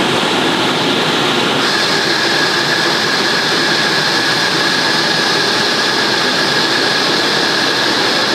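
B-2 Spirit's four General Electric F118 turbofan engines running loud and steady, a dense roar with a thin high whine over it; the hiss turns brighter about a second and a half in.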